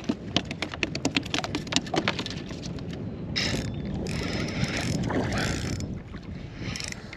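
Rapid, irregular mechanical clicking and rattling for about three seconds, then a couple of seconds of rushing noise.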